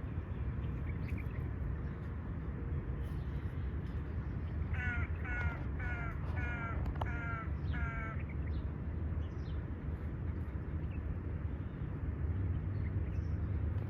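An animal giving six short calls in quick succession, about one every half second, midway through, over a steady low background rumble.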